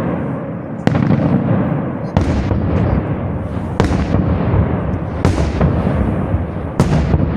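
Fireworks display with firework shells bursting: five loud bangs about a second and a half apart, each trailing off in a long low rumble.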